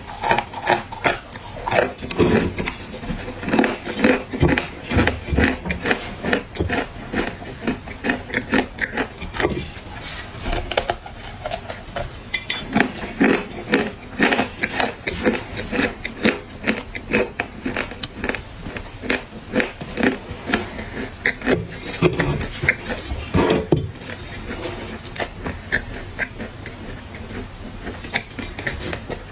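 Dry clay being crushed and crumbled, a dense run of irregular crisp crunches and crackles.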